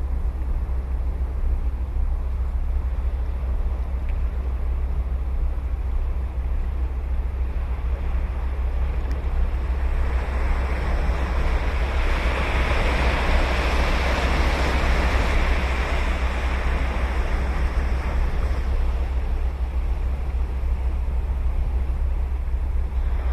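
Ocean surf: a wave breaks and washes in, swelling about halfway through and then fading, over a steady low rumble of wind on the microphone.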